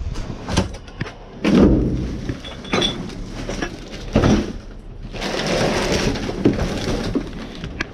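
Trash being shifted around inside a dumpster while it is searched for scrap metal: a few sharp knocks and thuds, then a couple of seconds of rustling and scraping.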